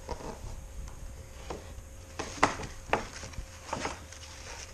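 A handful of short crinkles and taps: a small wrapped present being handled and opened.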